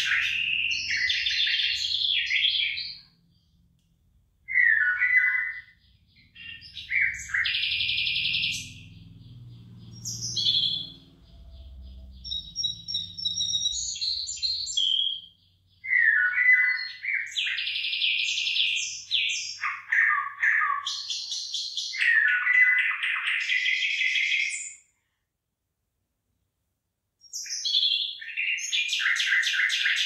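Birds singing and calling in a run of chirping, trilling phrases with short pauses between them. The sound cuts out completely twice for a second or two.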